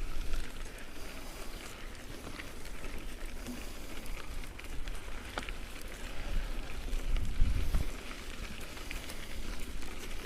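Mountain bike tyres crunching and crackling over loose gravel on a climb, with scattered small clicks. A low rumble swells about seven seconds in.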